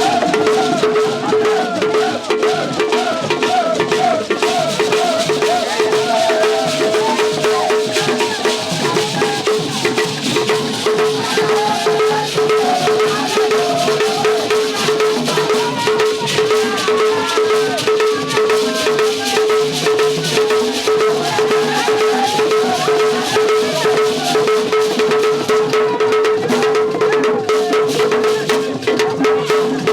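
Festival percussion music: drums with rattles and sharp wood-block-like clicks, over a single steady pitched tone held throughout.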